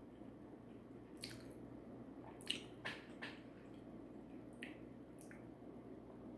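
A person eating: faint wet chewing with about half a dozen sharp lip and mouth smacks.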